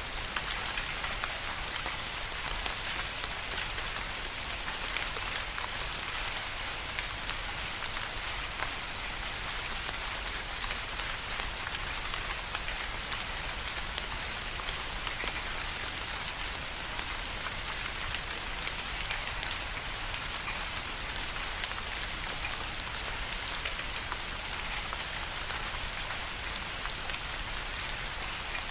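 Steady rain falling, an even hiss with many small drop ticks spread through it.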